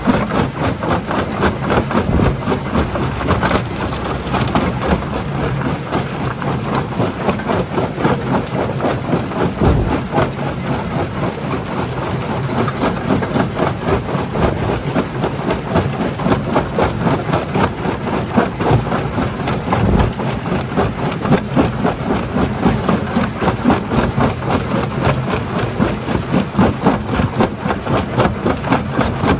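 Primary jaw crusher running under load: a steady heavy machine drone with constant dense rattling and knocking of rock, and a few heavier knocks scattered through.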